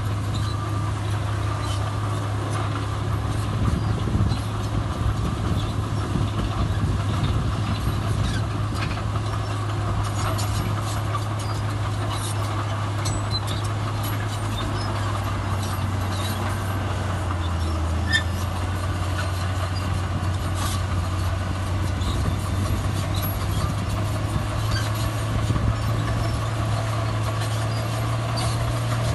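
Heavy diesel earthmoving machinery running steadily, with a reversing alarm beeping a few times at the start. The engine note rises slightly near the end, with scattered light clanks.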